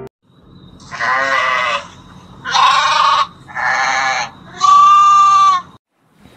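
Sheep bleating four times in separate calls, the last the longest and loudest.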